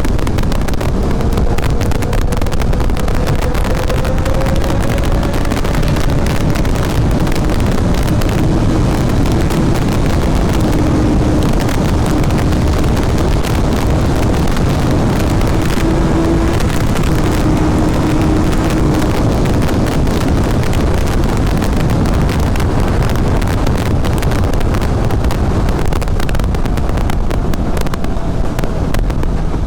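Heavy wind noise on the microphone of a superbike ridden at speed. The engine's note is faint underneath and rises slowly over the first several seconds.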